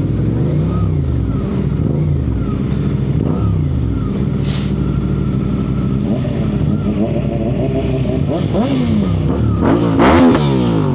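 Suzuki GSX-R sportbike engine heard from the rider, revving up and easing off again and again while riding in traffic, with one sharper, louder rev near the end.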